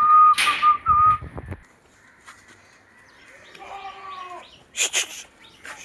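Barbari goats calling: a thin, high, held call for about the first second, then a lower bleat about four seconds in, with a couple of short noisy bursts between.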